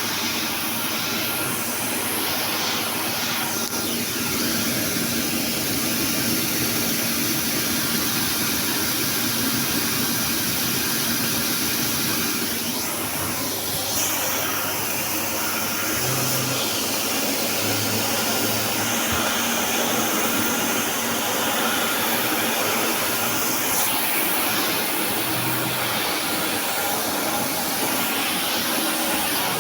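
Floor-scrubbing machine running steadily, its suction motor giving a constant loud rushing noise.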